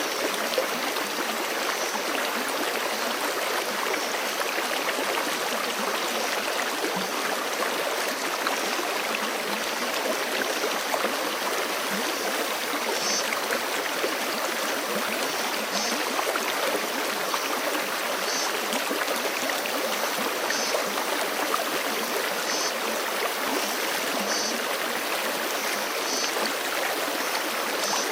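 Forest creek flowing steadily, a continuous, even rush of running water. In the second half a faint, short, high call repeats every two to three seconds.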